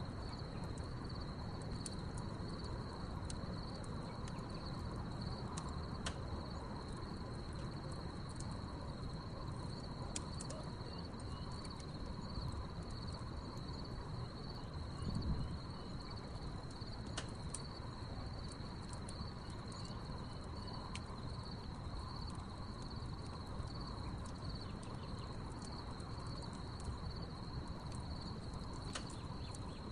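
Crickets chirping in a steady high pulsing trill over a crackling wood fire, whose sharp pops and snaps come at irregular moments. About halfway through there is a brief louder low sound.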